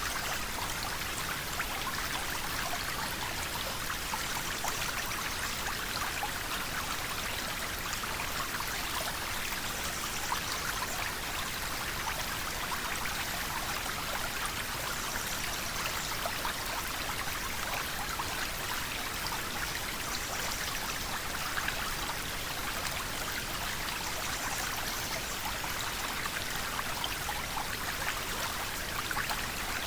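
River water flowing steadily, a continuous rushing and babbling with many small splashes.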